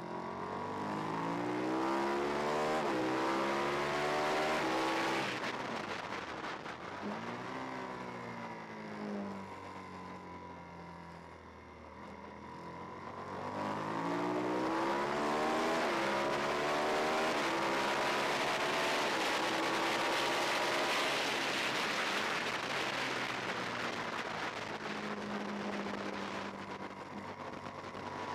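Twin-cylinder race motorcycle engine heard onboard at full throttle. Its pitch climbs and drops back with each upshift, then falls away as the throttle closes for a corner, and climbs again through the gears, with wind rushing over the bike.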